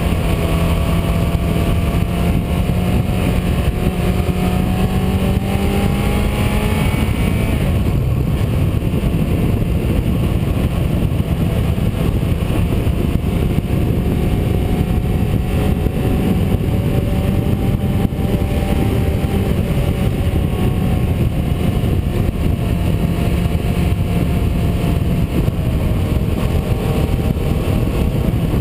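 A vehicle's engine pulling along a winding road under heavy wind and road rush. Its pitch climbs slowly for the first seven seconds or so, drops abruptly, then holds fairly steady with small rises and falls.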